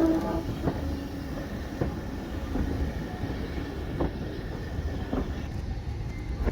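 Steam-hauled train of Robert Stephenson 0-6-0 locomotive and coaches rolling slowly as it draws into a halt. A steady low rumble runs under sharp knocks of the wheels over rail joints, about one a second, and a steady tone dies away about half a second in.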